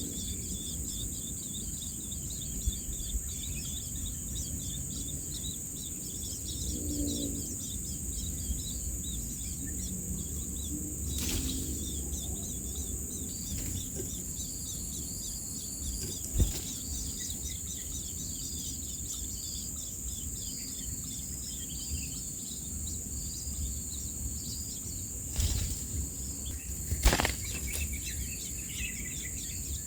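Outdoor ambience of a steady high-pitched insect drone with rapid chirping, faint short bird chirps, and a few sharp knocks, the loudest two near the end.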